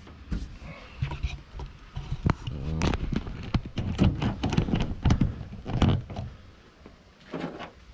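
Stainless steel bolts and finish washers being handled and fitted into a plywood deck: a quick run of taps, clicks and knocks, thinning out near the end.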